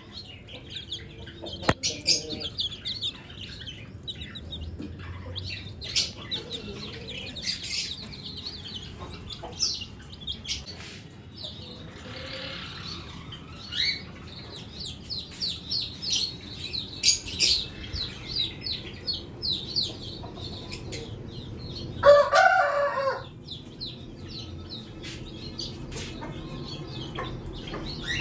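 Budgerigars chattering in an aviary, a steady stream of short, high chirps. About 22 seconds in, a chicken gives one loud call lasting about a second, louder than anything else.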